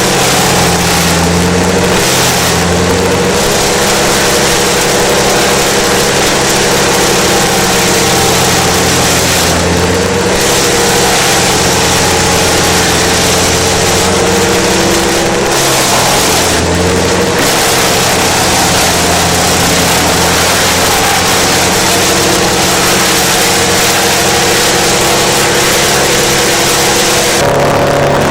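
Vermeer BC 1000 wood chipper's diesel engine running at working speed, with the hiss of material being chipped. The hiss thins out briefly several times, and the engine pitch dips slightly now and then.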